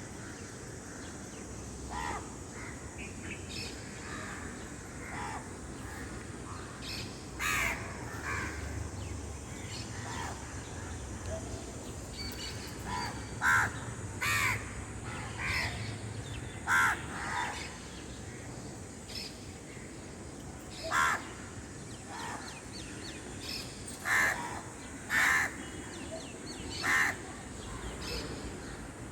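Birds calling: a series of short, loud calls at irregular intervals, a second to several seconds apart.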